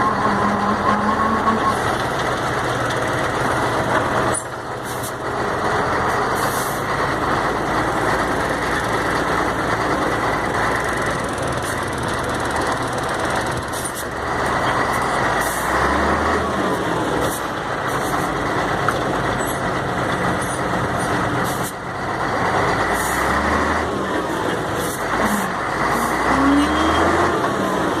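Mercedes-Benz 1634 diesel truck under way, its engine rising and falling in pitch as it pulls and backs off, with a few brief clicks. There is no differential howl on lifting off the throttle: the freshly rebuilt differential has cured the noise.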